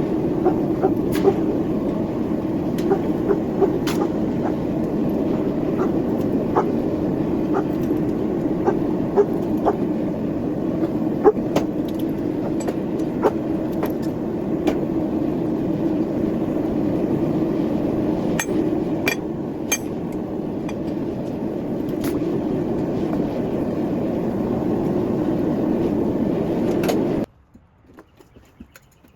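A steady mechanical noise with scattered sharp clicks and taps over it, cutting off abruptly near the end.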